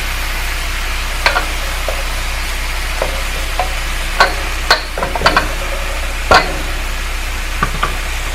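Chicken wings sizzling in hot oil in a frying pan, with a scattering of sharp clicks and knocks from a utensil against the pan as the pieces are stirred; the loudest knock comes about six seconds in.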